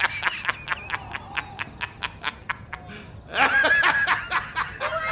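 A rapid snickering laugh: a run of short pitched pulses, about five a second, then a longer pitched sound, and several falling tones near the end.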